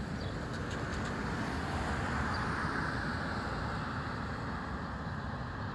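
Steady road-traffic noise, a tyre-and-engine hiss and rumble that swells a little in the middle as a vehicle passes.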